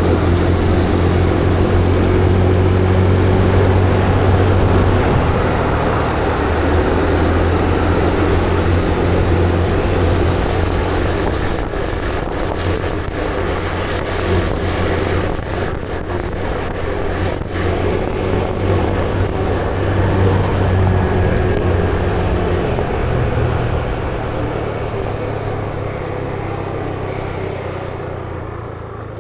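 A vehicle engine running steadily with road and wind noise, heard from on board; its hum shifts a few times, a few brief clicks come through in the middle, and it grows quieter toward the end.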